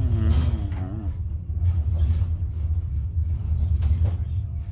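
Low, steady rumble, with a person humming a wavering tune over about the first second.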